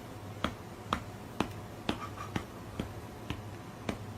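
A run of sharp, even clicks, about two a second, over a low steady hum.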